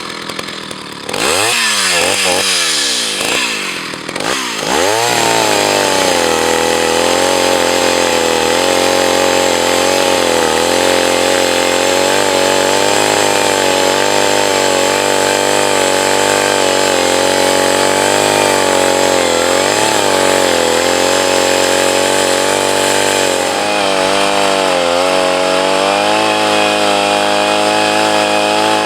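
Old Jonsereds 601 two-stroke chainsaw that has just started: it is blipped up and down for the first few seconds. It then runs steadily at high revs with slight wavering, and dips and picks up again several times near the end.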